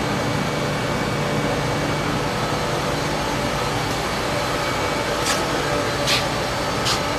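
Danobat CNC high-speed blade tip grinding machine running steadily as it grinds the blade tips of a V2500 HPC compressor rotor, with three brief high-pitched bursts in the second half.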